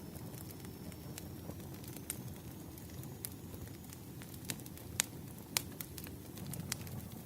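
Firewood logs burning, crackling: irregular sharp pops and snaps over a low steady rumble, the two loudest pops coming about five and five and a half seconds in.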